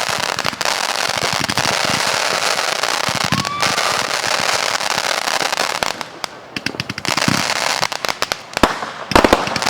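Consumer fireworks going off: a dense, continuous crackle of many small reports for about six seconds, thinning into separate sharp cracks and pops, with the loudest bangs near the end.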